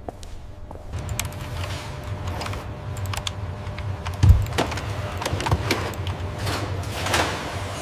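Factory machinery: a steady low hum under a run of irregular metallic clicks and clacks, with one heavy thud a little past halfway through.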